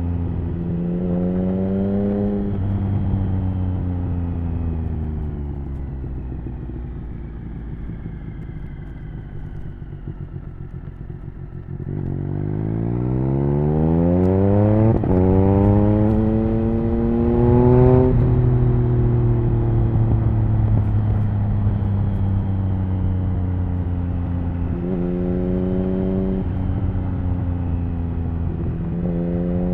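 Triumph Speed Triple 1050's inline three-cylinder engine through an HP Corse Hydroform exhaust, heard from the rider's position. The revs fall away for several seconds as it slows. Then it pulls hard through the gears with a quick upshift midway, and settles to a steady cruise with brief rises in revs near the end.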